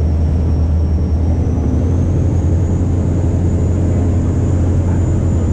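Fishing boat's engine running steadily under way, a deep even drone, with the rush of water along the hull.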